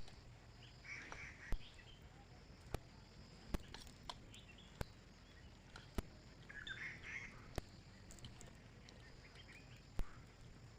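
Quiet forest ambience: a few short bird-like calls, about eight sharp irregular clicks, and a faint steady high hiss underneath.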